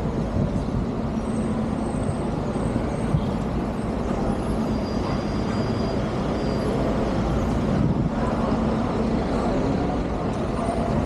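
A motor vehicle's engine running steadily, with a low hum and road noise.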